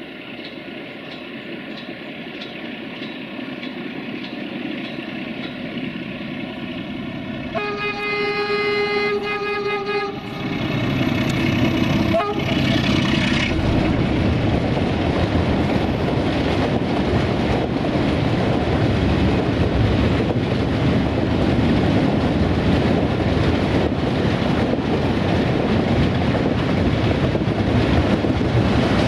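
Electroputere LDE2100 (CFR class 060-DA) diesel-electric locomotive approaching with its engine running and growing louder, sounding its horn for about three seconds a third of the way in, with a shorter second tone shortly after as it passes beneath. Then a train of loaded open freight wagons rolls past with a steady, loud rumble and wheel clatter.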